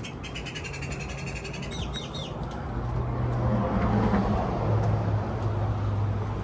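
A small bird sings a rapid high trill for about two seconds, ending in a few quick chirps. Then the low hum and road noise of a passing motor vehicle swell, loudest about four seconds in, and ease off.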